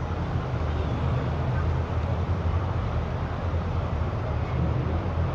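A car engine running nearby with a steady low rumble, over street traffic noise.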